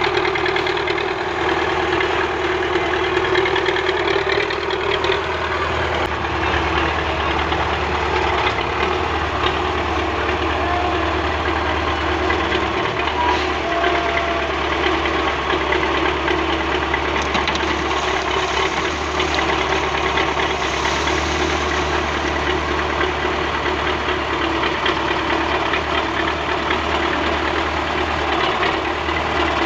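Tractor engine running steadily at an unchanging speed.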